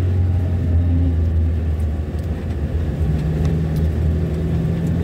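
A vehicle's engine and road noise droning steadily while driving, with a strong low hum; a slightly higher steady tone joins about three seconds in.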